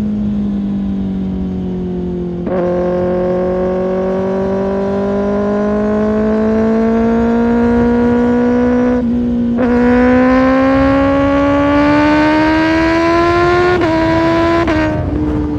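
2025 Kawasaki Ninja ZX-6R inline-four through an Arrow Pro Race exhaust, pulling under throttle with its engine note climbing steadily. The note breaks briefly twice, at about two and a half and nine and a half seconds, and wavers near the end.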